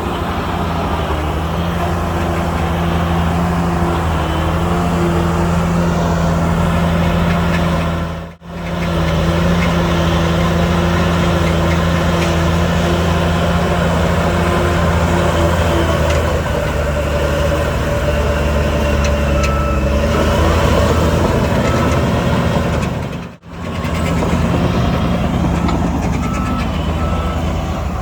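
Heavy diesel earthmoving machinery, a bulldozer and dump truck, running with a steady engine drone. In the last third a truck's reversing alarm beeps repeatedly. The sound drops out briefly twice.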